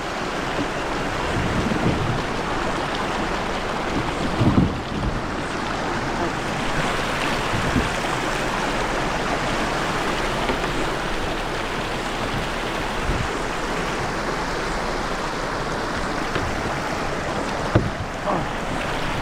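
Steady rushing water noise on a creek, with a dull knock about four seconds in and another near the end.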